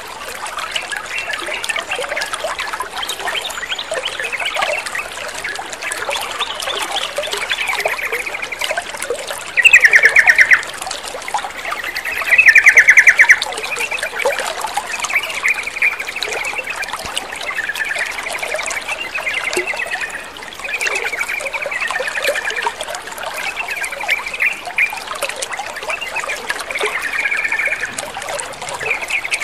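Yellow-vented bulbuls calling in short chattering phrases over steadily trickling water, with two much louder bursts of calls about ten and twelve seconds in.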